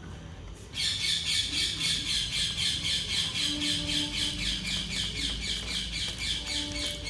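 A rapid run of high-pitched, evenly spaced chirps, about six or seven a second, starting about a second in and going on steadily: bird-like squawking calls.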